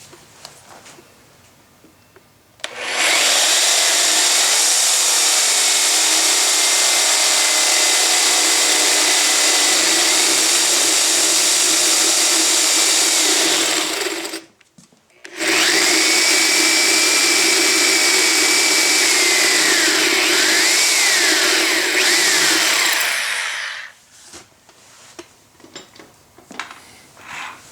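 Electric drill running at speed in two long runs, about eleven seconds and then about eight, with a one-second stop between them. It gives a steady high whine, and near the end of the second run the pitch wavers as the bit takes load.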